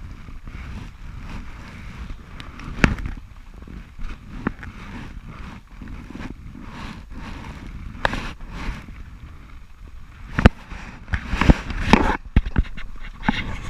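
Knocks and bumps aboard a small boat adrift at sea, over a steady low rumble. The knocks come at uneven intervals, and the sharpest is about ten and a half seconds in.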